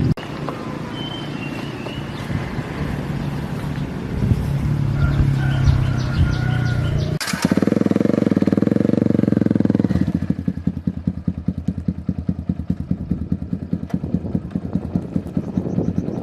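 Small motorcycle engine running. It runs steadily, comes up louder for a few seconds about seven seconds in, then settles to an even putter at idle.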